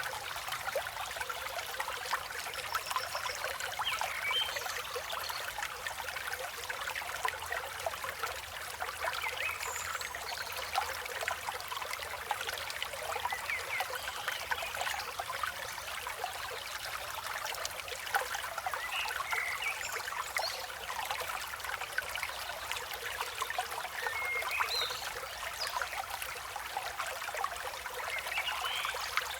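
River water flowing and trickling steadily, with short bird chirps scattered throughout.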